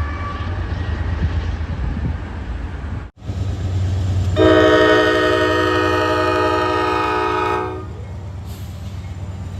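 Low rumble of a train, then, after a cut, a locomotive horn sounding one long chord of several notes for about three seconds over the rumble.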